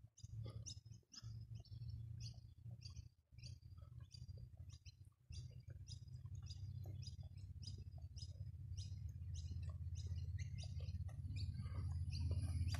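A bird chirping over and over, short high chirps about two or three a second, over a steady low rumble.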